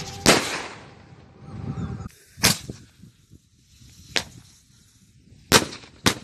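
Daytime firework rockets bursting overhead: a loud bang just after the start with a short rumbling tail, then four more sharp bangs a second or two apart, the last two close together near the end.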